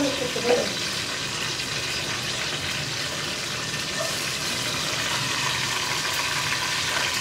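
Steady frying sizzle of whole spices and bay leaves in hot ghee, stirred in the pot, with lentil fritters frying in oil in the wok beside it.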